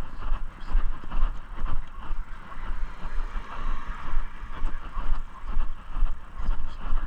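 A low rumble with a hiss above it on the microphone while walking, its loudness swelling and fading about every half second.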